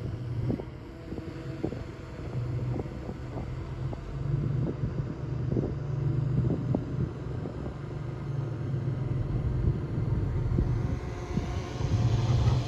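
Komatsu D20A bulldozer's diesel engine running under load, with frequent short metallic clanks and knocks from its tracks and blade as it pushes soil.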